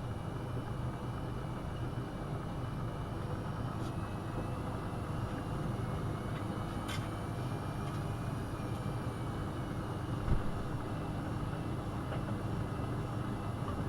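AEG Öko-Lavamat 72520 front-loading washing machine running through its boil-wash programme, a steady low mechanical hum from the motor and drum. A sharp click comes about 7 seconds in and a short low thump about 10 seconds in.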